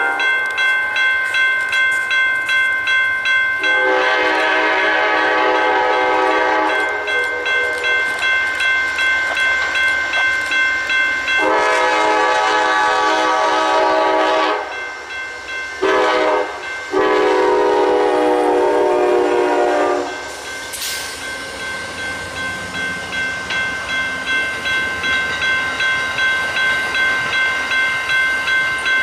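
Train horn sounding the grade-crossing signal, long, long, short, long, over a railroad crossing bell that rings about twice a second throughout.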